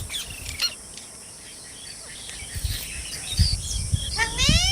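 Parrot calls: a few short chirps at the start, then a quick run of rising squawks near the end.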